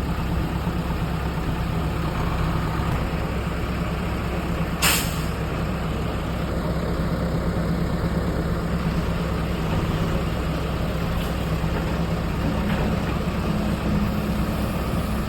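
Heavy diesel engine of an excavator running steadily, with one short, sharp hiss-like burst about five seconds in.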